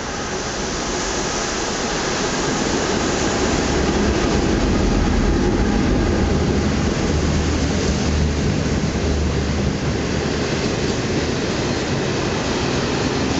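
A DF11 diesel locomotive running into the station, its engine loudest as it passes about four to six seconds in, then its 25T passenger coaches rolling by on the rails.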